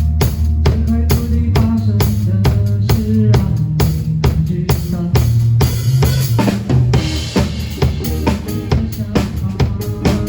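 Live band playing an instrumental passage: a drum kit keeps a steady beat with bass drum and snare over a bass line, with a cymbal ringing out about six seconds in.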